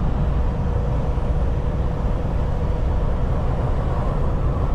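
Semi truck cruising on the highway, heard from inside the cab: a steady low diesel-engine and road rumble with a faint steady hum above it.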